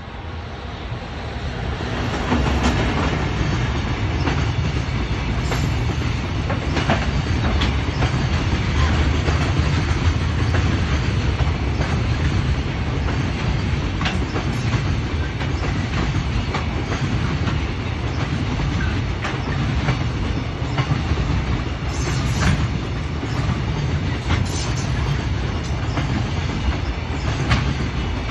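Container freight train, an EF210 electric locomotive hauling a string of Koki container wagons, passing close by. It grows loud about two seconds in, then goes by with a steady rumble and wheels clicking over rail joints.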